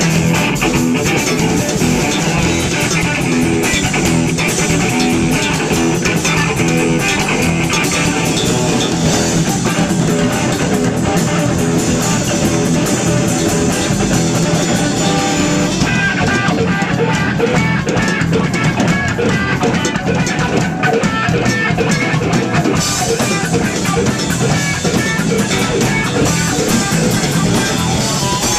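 Loud rock music: electric guitar playing over bass guitar and a drum kit, with a steady beat.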